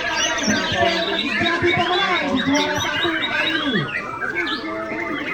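Many white-rumped shamas singing at once, a dense tangle of overlapping whistled phrases and trills, with a murmur of crowd voices underneath.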